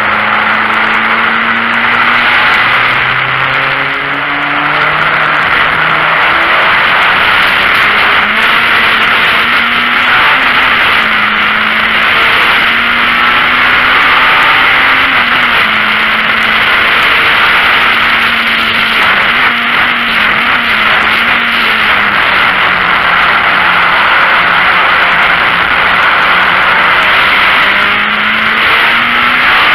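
VW Golf Mk1 race car's four-cylinder engine heard from inside the cabin, climbing in pitch through the gears in the first few seconds, then holding a fairly steady note with small rises and dips, over loud wind and road noise.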